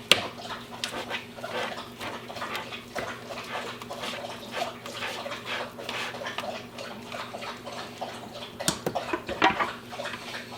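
Cooked pheasant meat being shredded in its pot: a dense, irregular run of wet tearing, smacking and utensil clicks that stops suddenly at the end, over a steady low hum.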